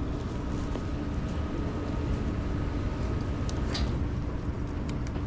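Steady background noise of an airport terminal hall, with a steady hum and a few light clicks in the last second or so.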